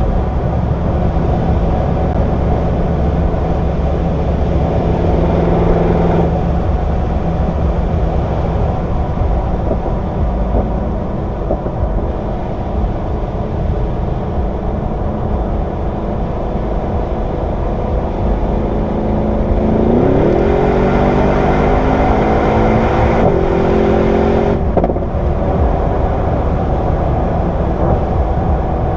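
Mercedes-AMG E63 S 4.0-litre twin-turbo V8 cruising with steady engine and road noise, then, about two-thirds of the way through, accelerating: the engine note climbs for a few seconds, breaks briefly at a couple of gearshifts, and settles into a steady, higher drone.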